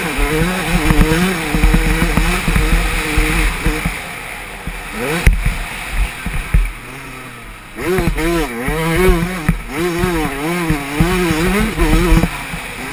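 Yamaha 125 two-stroke motocross bike engine revving up and down as it is ridden, with many short knocks and rattles. The throttle eases off to a lower, quieter note for a few seconds in the middle, then opens up again about eight seconds in.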